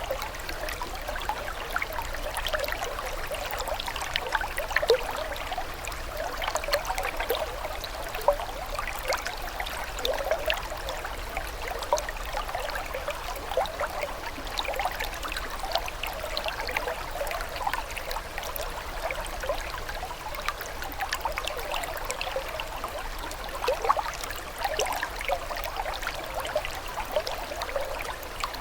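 Flowing water trickling and gurgling steadily, with many small splashes and bubbling blips over an even rushing sound.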